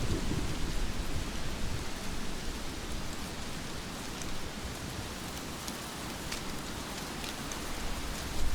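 Heavy rain falling steadily, with scattered sharp drop ticks. A low rumble of thunder dies away in the first second and swells again near the end.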